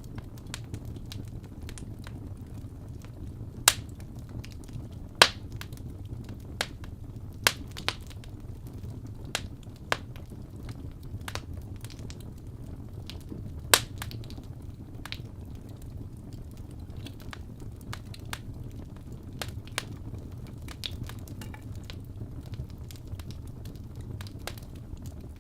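Wood fire crackling with irregular sharp pops over a steady low rumble; a few pops stand out louder about four, five, seven and a half and fourteen seconds in.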